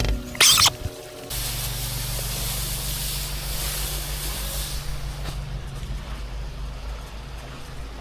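Pressure-washing rig running with a steady low engine hum and water spraying from the wand as a broad hiss, which fades after about five seconds while the engine keeps running. A short loud burst comes about half a second in.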